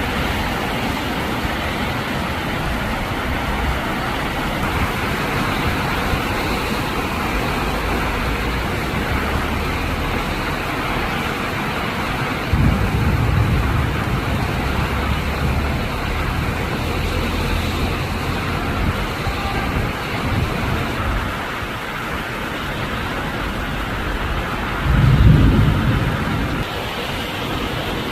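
A thunderstorm: heavy rain and wind hiss steadily. Two low rumbles of thunder come through, one about halfway through and a louder one near the end.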